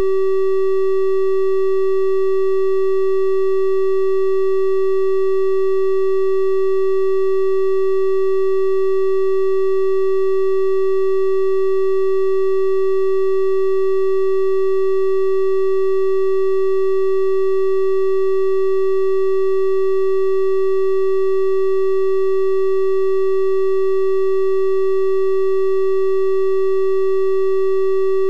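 Synthesized 384 Hz triangle-wave tone held steady, a pure-sounding hum with faint higher overtones.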